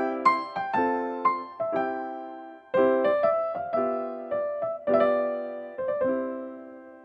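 Background music: an electric piano or keyboard playing struck chords in a gentle rhythm, the last chord ringing out and fading near the end.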